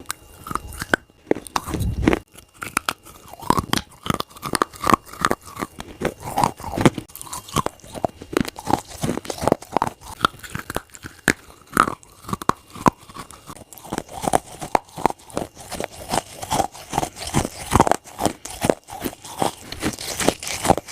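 Close-miked crunching of a wet clay plate being bitten and chewed: a dense run of sharp crunches several times a second, with a dull thump about two seconds in.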